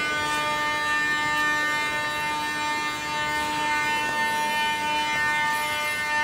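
Metro train's electrical equipment giving off a steady high-pitched whine made of several held tones, unchanging throughout.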